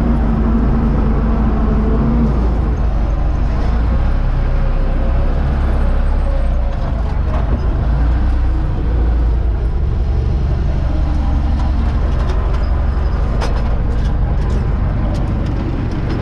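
Universal 650 tractor's diesel engine running steadily, a deep continuous drone, with a few light clicks in the last few seconds.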